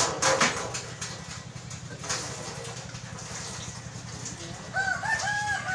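A few sharp knocks at the start over a low steady hum, then a rooster crowing near the end, one long wavering call.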